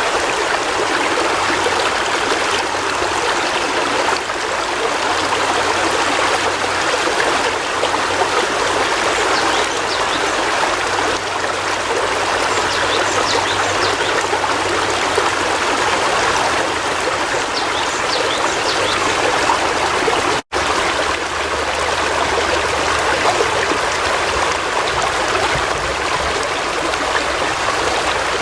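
River water flowing, a steady rushing and babbling with no pauses. It cuts out for a split second about two-thirds of the way through.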